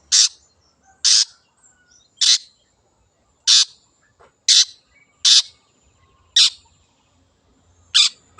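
Long-tailed shrike (cendet) giving short, harsh calls, eight in all, about one a second with uneven gaps.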